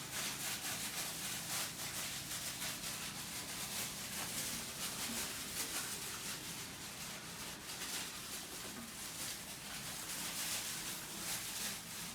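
Soft, irregular rustling and rubbing: a hand in a plastic bag pressing wet cement mortar into the gap around a toilet bowl's base.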